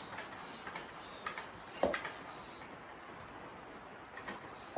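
Air hissing into a new motorcycle inner tube as it is partly inflated, stopping a little under three seconds in, with a sharp knock about two seconds in.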